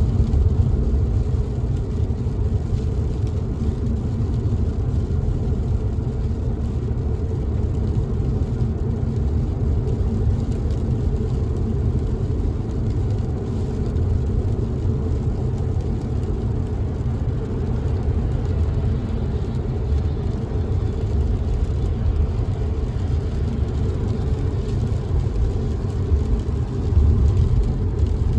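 Steady low rumble of a car driving on a wet road, heard from inside the cabin, with rain on the windows; it swells briefly louder near the end.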